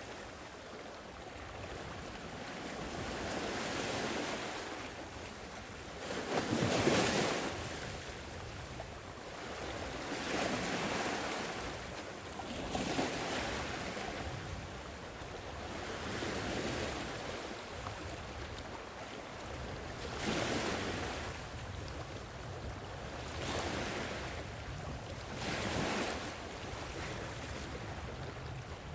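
Sea waves washing onto the shore: a steady hiss of surf that swells and falls back every few seconds, with the biggest wave about seven seconds in.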